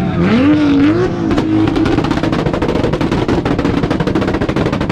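Turbocharged Toyota Supra engine revving up, then held on a two-step launch limiter, firing a rapid string of loud pops and bangs from the exhaust.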